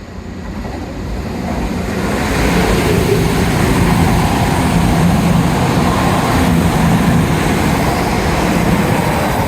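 Diesel train passing through the station, getting louder over the first two seconds and then holding a steady engine drone with rail noise.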